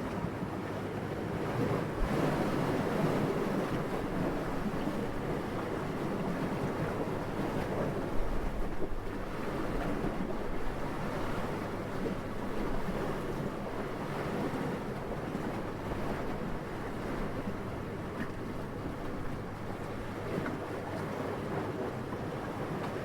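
Gentle wind blowing steadily as a soft rushing noise, swelling in gusts about two seconds in and again around nine seconds.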